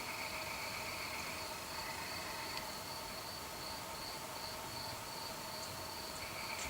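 Night-time chorus of crickets trilling steadily at several pitches. One of the singers drops out a couple of seconds in and starts again near the end.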